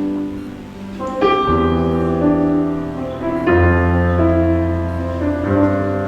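Slow instrumental worship music led by piano or keyboard: sustained chords with a deep bass, a new chord struck about a second in, again past the middle and near the end.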